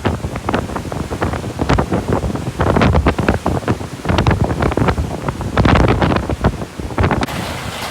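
Hurricane-force wind gusting hard against the microphone in irregular buffeting blasts. About seven seconds in, the buffeting suddenly gives way to a steady, even hiss.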